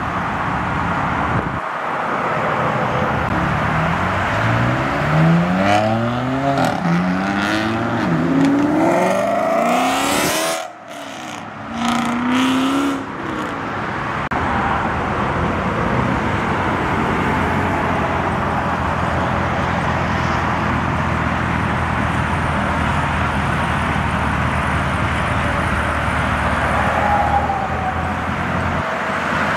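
Car engines accelerating hard, the pitch rising and dropping back through several quick upshifts; after a brief drop-out, a C7 Corvette ZR1's supercharged V8 idling steadily.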